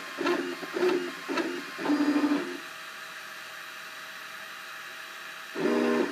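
Cubify 3D printer's stepper motors buzzing as the print head moves. There are three short buzzing moves in the first second and a half and a longer one about two seconds in. A quieter steady hum follows, then another loud buzzing move near the end.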